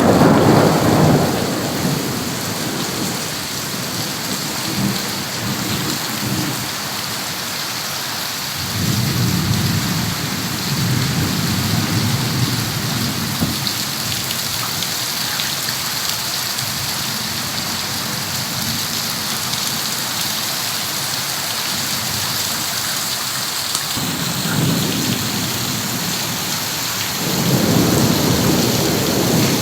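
Heavy rain pouring steadily. Several times a low rumble swells and fades under it: a loud one at the start, another around ten seconds in, and more near the end.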